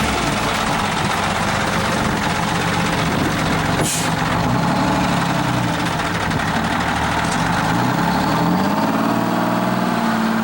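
Heavy diesel truck engine running, its pitch rising and falling as it revs, with a short sharp hiss about four seconds in.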